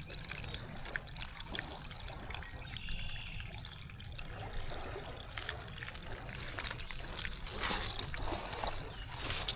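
Water trickling and lapping with many small clicks throughout.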